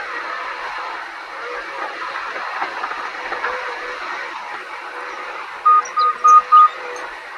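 John Deere 130 excavator running as it spreads rock, a steady mechanical noise with no deep rumble. Near the end come four short, high beeps in quick succession.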